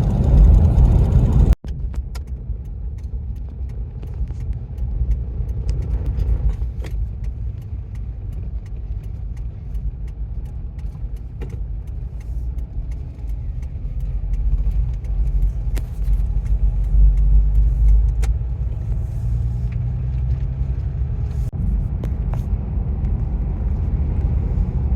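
Steady low rumble of a vehicle's engine and tyres while driving on the road, with an abrupt break about a second and a half in.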